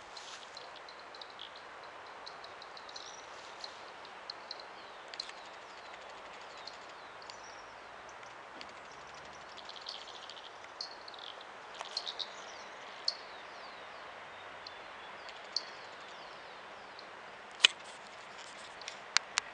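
Fork-tailed flycatcher calling: scattered short, high chirps and twitters with sharp ticks, over a steady background hiss. A sharp click about two seconds from the end is the loudest sound.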